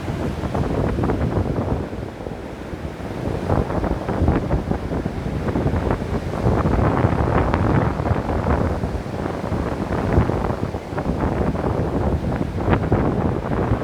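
Ocean surf breaking and washing up a beach: a deep churning rush that eases about two seconds in and swells again near the middle.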